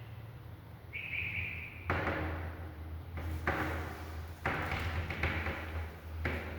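A bird pecking at its reflection in a mirror: four bursts of rapid tapping, each about a second long. A short high-pitched note comes about a second in.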